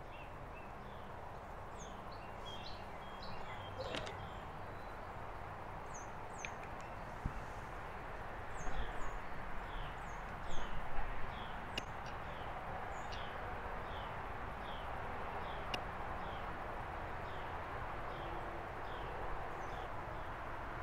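Small birds chirping: a long run of short, falling chirps repeating about every half second, over a steady outdoor background hiss. A few faint clicks and two brief louder noises come near the middle.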